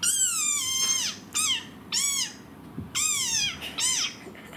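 Fox giving a run of high-pitched whining calls, about five in quick succession, each rising and then falling in pitch, the first one sliding down in a long fall.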